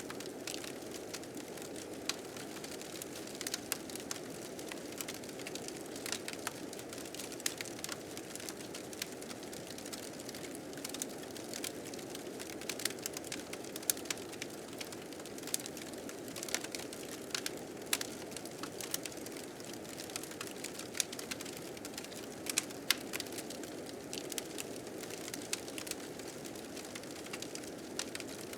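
Fire crackling with frequent irregular sharp pops over the steady rush of blizzard wind.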